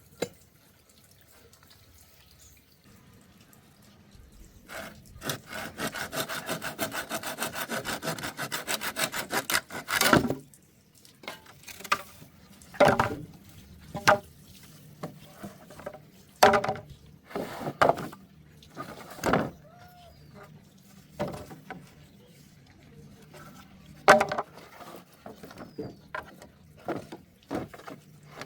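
Wood being sawn by hand: a run of quick, even strokes for about five seconds, then scattered single strokes and knocks on the wood.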